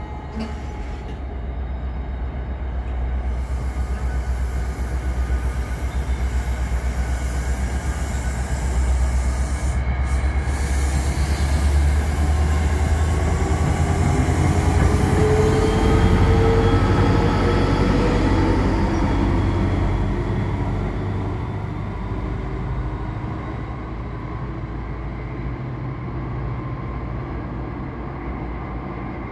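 NJ Transit Comet V commuter train pulling out, its coaches rolling with a low rumble over the rails. The diesel locomotive's engine climbs steadily in pitch as it accelerates past, loudest midway, then the sound fades as the train draws away.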